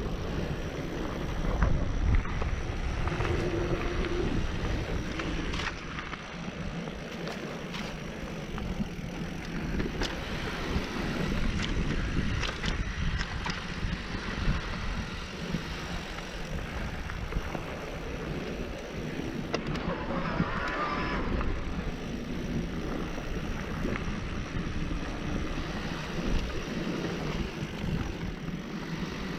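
Mountain bike being ridden along a dirt trail: wind rushing over the microphone, tyres rolling and the bike rattling, with scattered knocks from bumps.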